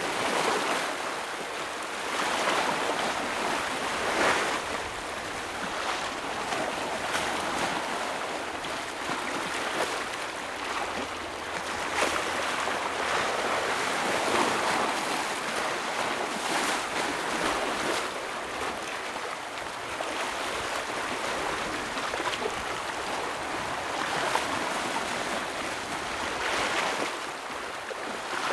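Ocean waves breaking and washing against shoreline rocks, swelling and easing every few seconds, with sharp splashes here and there.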